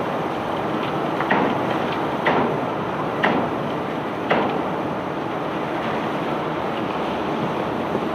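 Steady machinery noise of a self-unloading barge discharging cobblestones, with four sharp knocks about a second apart in the first half.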